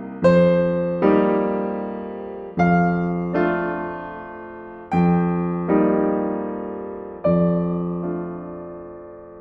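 Slow, gentle classical-style piano music: soft chords struck and left to ring and fade, arriving in pairs about every two seconds.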